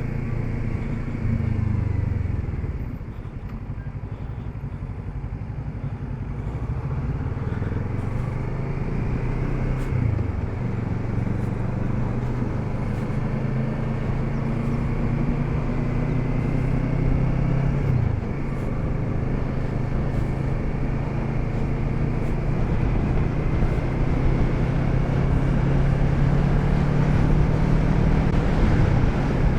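Kawasaki Z650RS parallel-twin engine running on the road. The engine note falls quieter about three seconds in and then slowly builds. Twice it dips briefly, about ten and eighteen seconds in.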